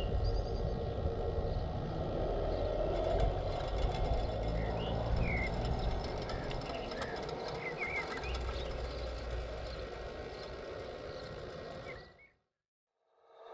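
Radio-controlled scale construction machines running outdoors, a steady mechanical drone with a low rumble, while birds chirp over it; the sound fades out about twelve seconds in.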